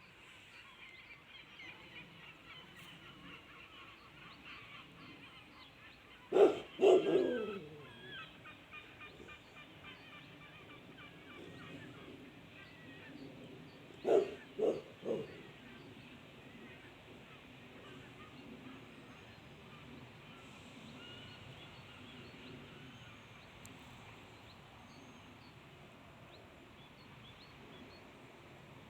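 A large flock of birds calling overhead: many short calls overlapping into a constant, noisy chorus. Twice a much louder, lower sound cuts through: a falling cry about six seconds in, and three short ones about fourteen seconds in.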